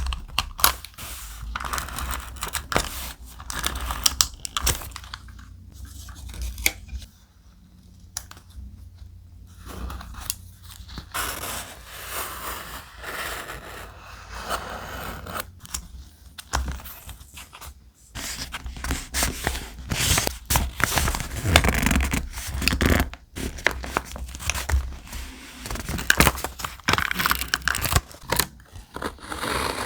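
Thick, heavy-textured paper being handled close up for scrapbook journaling: irregular crackling, scraping and tearing with sharp little clicks, easing off for a few seconds about seven seconds in.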